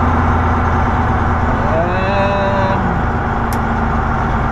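A semi-truck's diesel engine runs steadily, heard from inside the cab. About two seconds in, a brief pitched sound rises and then holds for about a second. A short click comes near the end.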